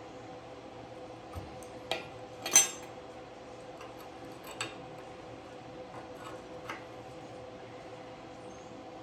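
A few light metallic clinks and clanks of metal pieces or tools being handled, the loudest about two and a half seconds in, over a steady hum.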